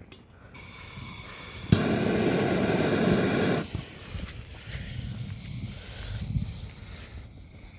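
Lit firework fuse hissing, then the Cobra's Den firework catching with a sharp crack and a louder hiss that lasts about two seconds before dying down to a weak sputter.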